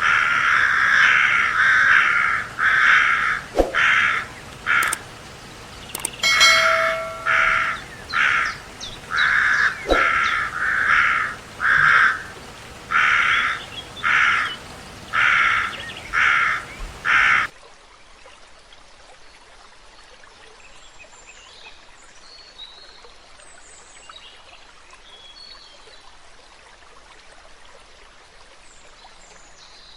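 A bird giving loud, harsh, caw-like calls over and over, about one a second. About halfway through it cuts off suddenly to a quiet outdoor background with faint, high bird chirps.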